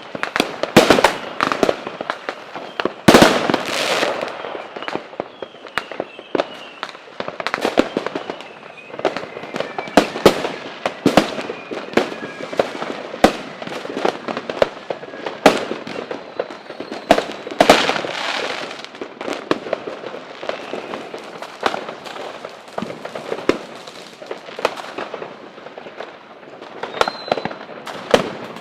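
Fireworks display: a continuous barrage of sharp bangs and crackling bursts, heaviest about three seconds in and again around eighteen seconds, with faint whistles from shells now and then.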